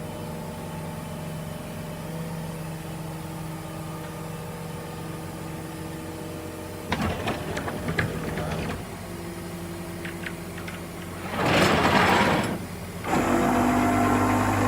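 A vehicle engine idling steadily. A few sharp knocks come about seven seconds in, then a loud rushing noise for about a second and a half. After that the engine runs louder, with a deeper steady hum.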